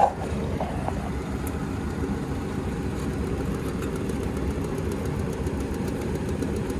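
Goodman gas furnace's blower running and shaking badly: a steady low rumble with a sharp knock at the start and faint rapid ticking later on.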